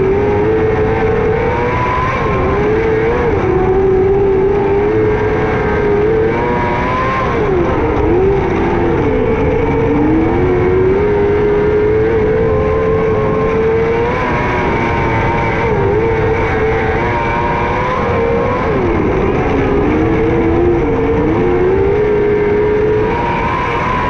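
600cc micro sprint car's motorcycle engine running hard at high revs, its pitch dropping briefly and climbing back again three or four times as the throttle is lifted and reapplied.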